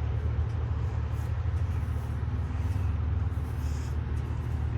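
Steady low rumble of an idling vehicle engine, even throughout.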